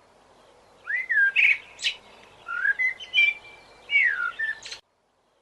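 A songbird singing in three short phrases of clear, gliding whistles with brief rattling notes between them; the sound cuts off abruptly near the end.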